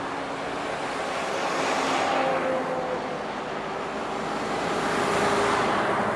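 Road vehicle driving by: a steady rush of tyre and engine noise that swells about two seconds in and again near the end, with faint engine tones underneath.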